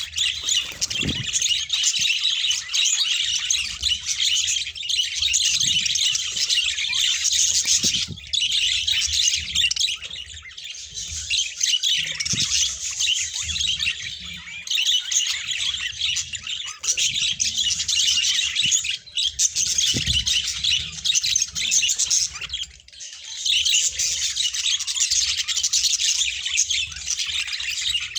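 Budgerigars (parakeets) chattering and chirping continuously as a group, with a few brief lulls.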